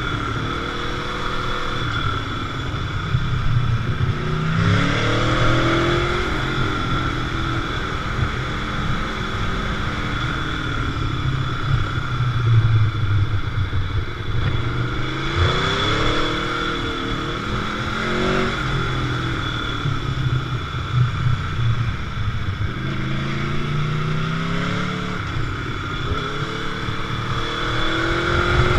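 Sport motorcycle on the move: the engine note climbs through several accelerations and drops back between them, as at gear changes or easing off the throttle.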